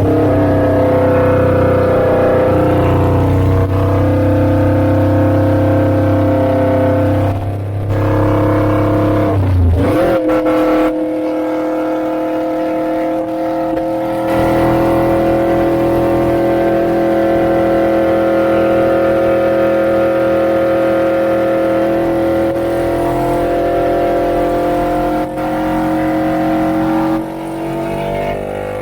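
Suzuki GS400's air-cooled parallel-twin engine running through a Pretty Racing aftermarket exhaust as the bike is ridden. The note holds steady, breaks briefly about eight to ten seconds in, then settles into a steady pull again.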